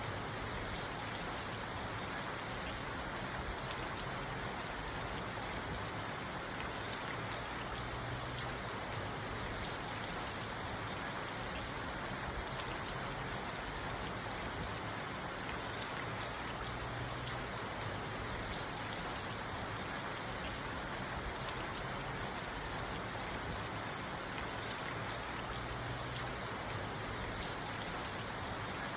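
Steady rain falling on a parked car, heard from inside the cabin as an even, unbroken patter.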